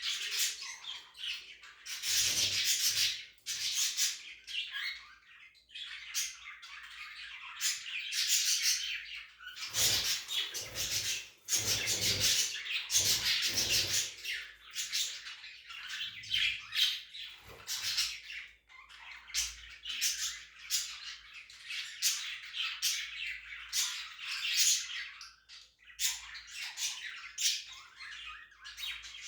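Budgerigars chattering and squawking in a near-continuous run of rapid high chirps and warbles, broken by short pauses. A few dull low thumps come in around the middle.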